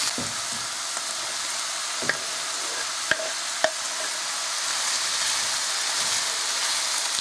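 Diced chicken breast, carrot and onion sizzling in hot fat in a stainless steel frying pan while being stirred with a wooden spatula, as diced sweet pepper is scraped in off a wooden cutting board. Three short wooden knocks against the pan come a few seconds in.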